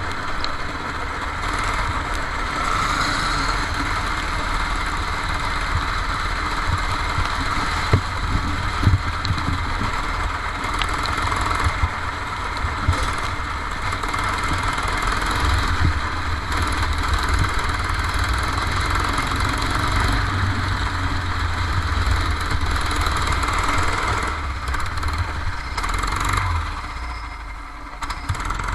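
Kart engine running continuously under throttle during a lap on a wet track. It drops in level briefly near the end, as if easing off for a corner.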